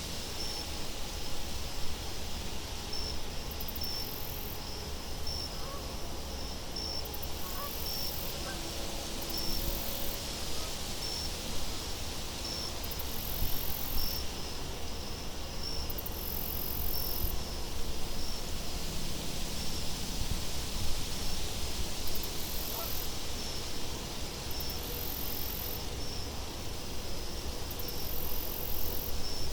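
Night ambience of crickets chirping steadily in a regular high-pitched pulse, with very high insect buzzing that comes and goes, over a constant background hiss of wind.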